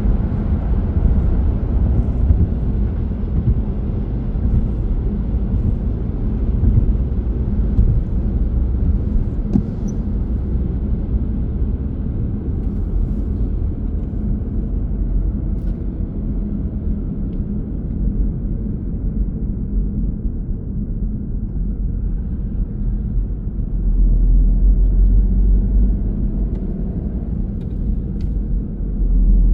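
A car driving: a steady low rumble of road and engine noise, swelling louder for a few seconds near the end.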